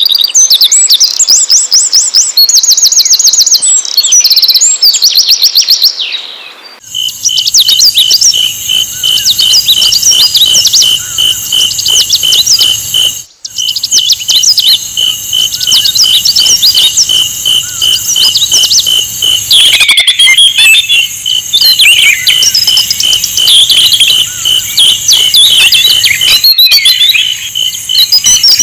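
Sikatan londo flycatcher singing: fast, high twittering trills, then after a short pause a varied run of high chirps and whistles over an evenly repeated high pip.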